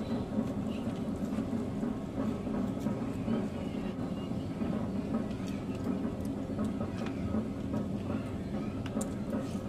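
A steady low hum, likely from a fan or similar motor, with scattered small clicks and smacks of eating.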